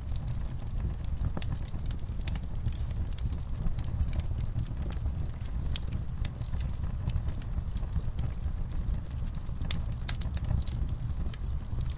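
Fire crackling in a fireplace: a steady low rumble of burning with many irregular sharp pops and snaps from the wood.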